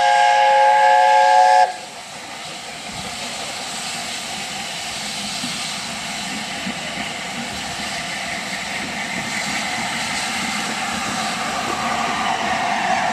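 Steam locomotive whistle sounding one loud chord of several notes, cut off under two seconds in. Then an even rushing noise of the train that slowly grows louder.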